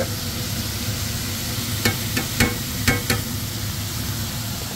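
Minced meat and onions frying with a steady sizzle in a pan, with a quick run of sharp knocks around the middle as ground spices are tipped in off a plate.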